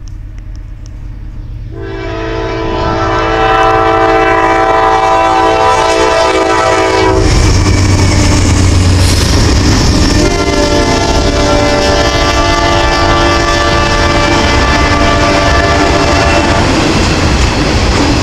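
Norfolk Southern diesel locomotives passing close by on an intermodal freight train, sounding the air horn in two long blasts: the first from about two seconds in to about seven, the second from about ten to sixteen seconds. A loud low engine rumble comes in at about seven seconds as the locomotives go by, and the rolling train's steady rail noise continues beneath.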